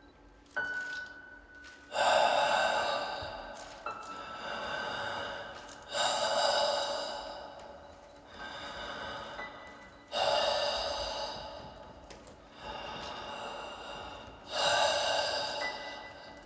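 A person's loud, sharp gasping breaths, one about every four seconds, each fading away, with softer breaths in between.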